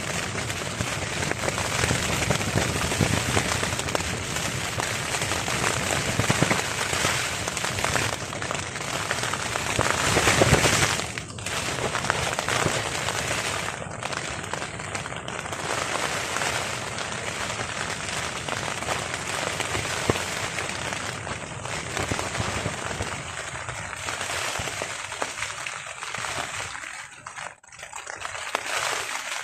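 Heavy rain pattering on a tarp overhead, a dense steady hiss of drops, with a louder surge about ten seconds in and easing off near the end.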